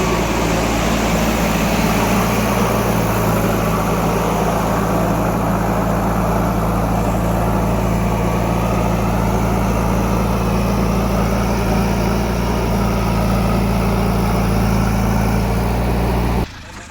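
Heavy diesel engine running steadily at a constant speed, a deep even drone, which cuts off abruptly near the end.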